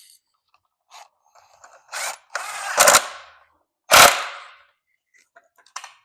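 Hand tools and parts being handled during mini-motorcycle assembly: a short rattle, then two sharp knocks about a second apart, each ringing briefly as it dies away.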